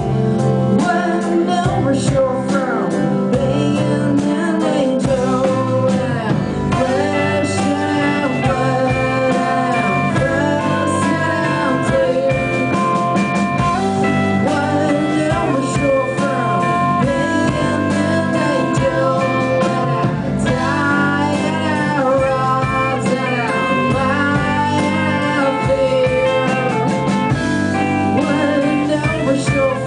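Live band playing a blues-rock song, a guitar line bending in pitch over a steady backing with a beat.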